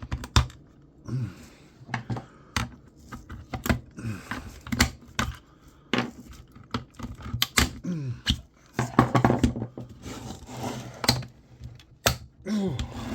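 Plastic housing of a hand orbital sander being pried apart: irregular sharp clicks, snaps and knocks of plastic, with a stretch of scraping about nine seconds in and a few short creaks.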